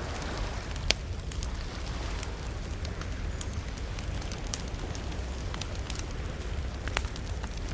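Campfire crackling: a steady stream of small sharp pops and snaps, with two louder pops about a second in and near the end, over a steady low rumble.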